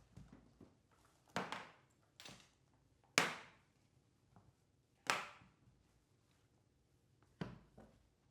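A series of sharp thumps at uneven intervals, each trailing off over a fraction of a second; the loudest comes about three seconds in.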